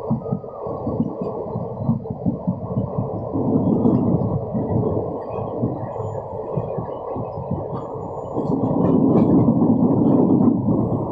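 Alappuzha–Dhanbad passenger train in motion, heard from aboard: a muffled low rumble with irregular rattling knocks. It swells louder about a third of the way in and again for a couple of seconds near the end.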